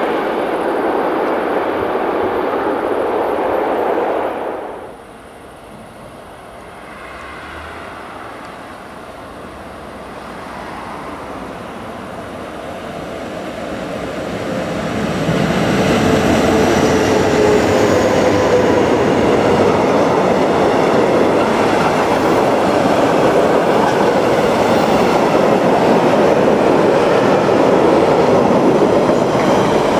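A loud noise cuts off suddenly about four seconds in. Then a freight train hauled by two red SBB electric locomotives draws near, growing steadily louder, and from about fifteen seconds in passes close by with the steady rumble and clatter of its container wagons on the rails.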